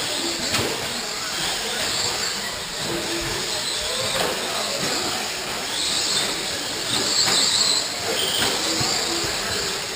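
Radio-controlled short-course trucks racing on a dirt track: a steady mix of motor whine and tyre noise with brief high hissing swells as trucks pass.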